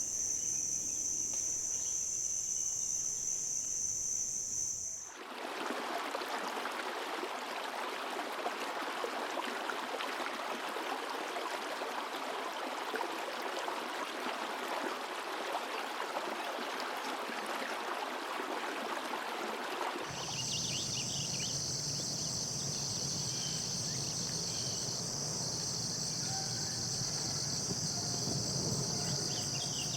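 Insects, crickets by the sound, trilling in one steady high-pitched tone. About five seconds in, it cuts to a steady, even rushing noise. About two-thirds of the way through, it cuts back to the insect trill, now with faint chirps under it.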